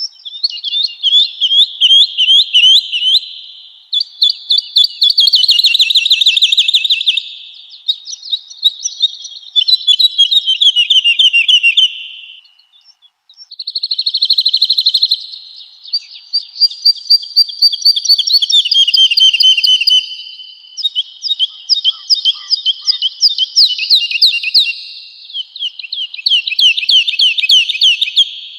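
Woodlark singing: phrase after phrase of rapid, repeated liquid notes, each run lasting a few seconds with short breaks between, some runs falling in pitch.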